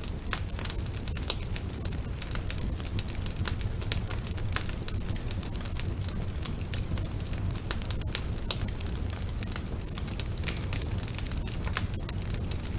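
Wood fire burning in a fireplace: dense, irregular crackles and pops from the burning logs over a steady low rumble of the flames.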